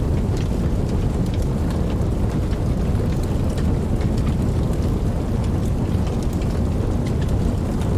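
Steady rain with a continuous deep low rumble of distant thunder underneath, and scattered raindrops ticking on top.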